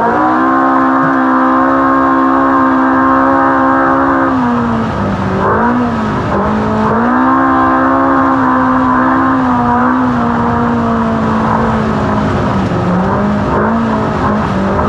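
Desert race car's engine running hard at high revs, holding a steady pitch, easing off briefly twice and climbing back up.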